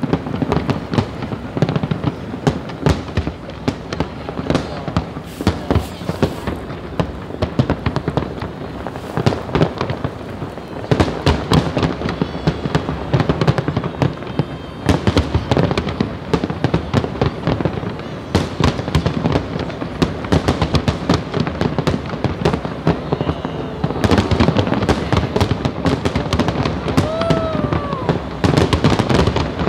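Aerial fireworks display: a continuous barrage of sharp bangs in quick, irregular succession, thickening into dense rapid runs several times and again near the end.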